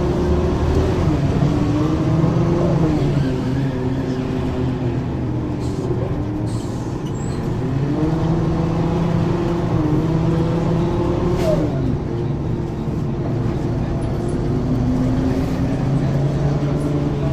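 Ikarus 435 articulated bus's diesel engine pulling through its ZF automatic gearbox: the engine note climbs, then drops back at each upshift, over two rounds of acceleration with steadier running between.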